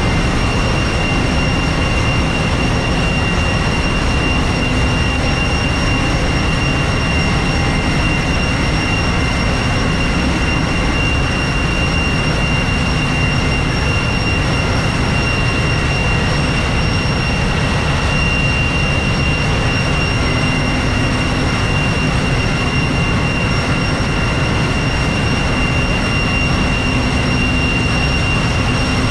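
Ship's engine room machinery running steadily and loudly: a deep rumble of engines with a constant high-pitched whine over it.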